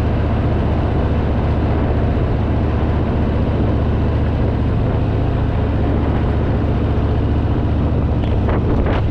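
Harley-Davidson Fat Boy's V-twin engine running steadily while under way, with a rush of wind and road noise over it.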